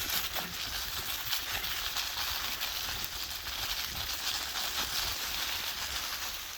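Dry fallen leaves rustling and crackling in a dense run of small clicks, over a low steady rumble.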